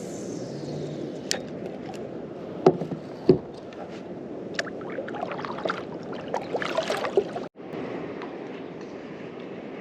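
A kayak moving through choppy water: a steady wash of water against the hull, with scattered light knocks and clicks.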